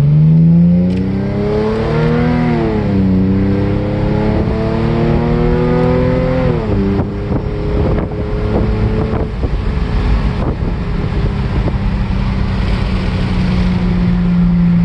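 Cadillac V6 engine and exhaust under acceleration, heard from inside the cabin. The engine note rises, dips briefly about two and a half seconds in, climbs again, then drops sharply at an upshift about seven seconds in. It then settles into a steady low drone at cruise.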